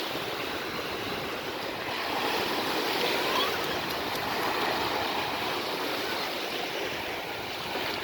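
Sea water washing and rushing: a continuous wash of surf noise that swells and eases gently.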